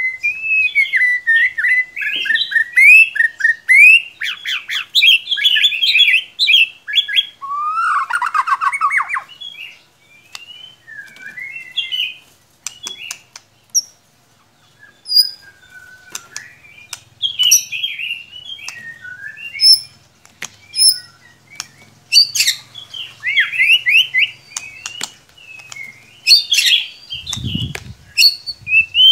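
White-rumped shama (murai batu) singing: loud, varied whistled phrases and fast chattering trills mixed with sharp clicks, coming in bursts with short pauses. A brief low thump sounds near the end.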